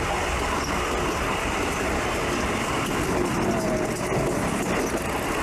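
Passenger train running along the track: a steady noise of wheels and running gear on the rails.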